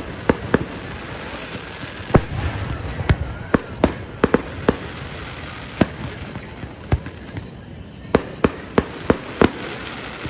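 Fireworks show: aerial shells bursting in an irregular string of sharp bangs over a crackling background, with a thinner spell about two-thirds of the way through before several more bangs in quick succession.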